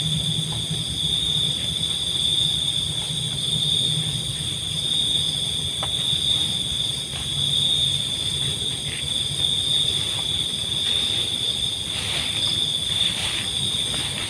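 Steady night chorus of crickets or other calling insects: an unbroken high-pitched trill with several higher bands above it. Underneath runs a low rumble that fades about halfway through.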